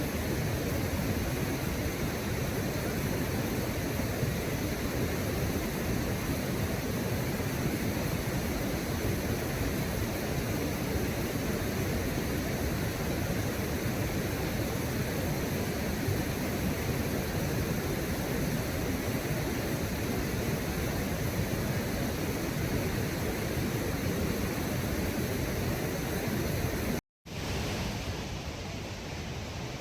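Steady rushing of river water by a waterfall. It breaks off for an instant near the end and comes back a little quieter.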